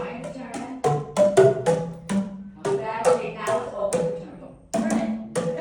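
Boomwhackers, tuned plastic tubes, struck one after another at a few notes a second, each a hollow note of a different pitch that dies away quickly, with a couple of short gaps.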